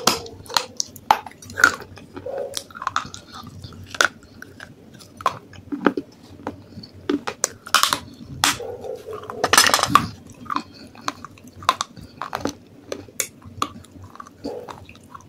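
Close-up crunching and chewing of brittle pieces of baked clay pot: irregular sharp crunches a few times a second, with the loudest bites about eight and ten seconds in.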